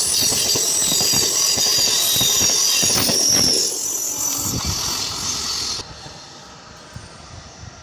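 Train coaches rolling past close by on the rails, loud, with a high-pitched wheel squeal. About halfway through the last coach clears and the sound falls away, dropping off suddenly near the end.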